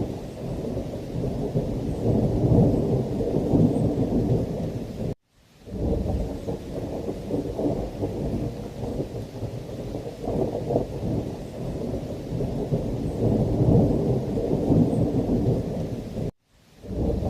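Thunderstorm: low rolling thunder that swells and fades over steady heavy rain. The sound cuts out to silence twice, for about half a second each time, about five seconds in and again near the end.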